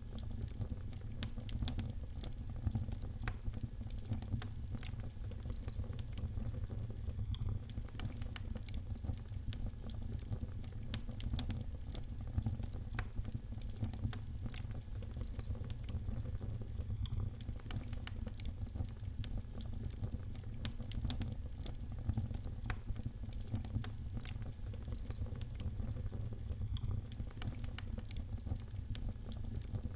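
Wood fire burning in a fireplace: a steady low rumble of flame with frequent small crackles and pops scattered throughout.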